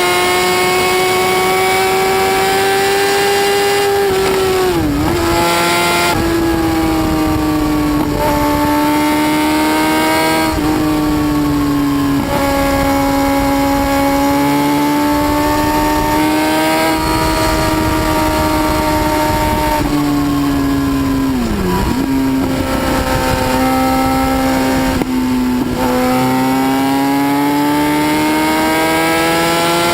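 High-speed motorcycle engine running at high revs with a steady, high pitch. The pitch briefly dips and recovers a few times, about five seconds in, near twenty-two seconds and near twenty-five seconds.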